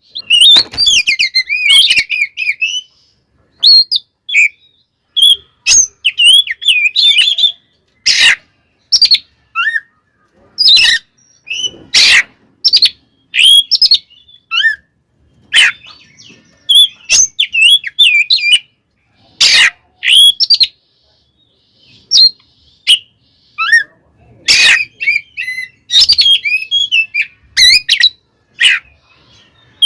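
Oriental magpie-robin (kacer) singing in fast, varied bouts of twisting whistles, mixed with many sharp, loud, clipped notes and short pauses between bouts. This is excited, aggressive song of the kind used to provoke other kacer.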